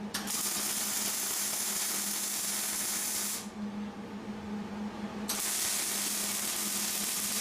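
MIG welder laying a bead: a steady hiss for about three seconds, a pause of about two seconds, then a second bead that runs on. A steady low hum sits underneath.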